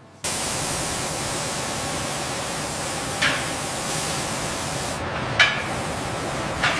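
A steady hiss like spraying, starting suddenly and holding even, with three short, sharper sounds over it about halfway through and near the end.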